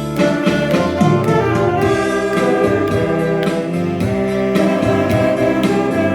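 Saxophone ensemble playing a melody in held, overlapping notes over a steady beat.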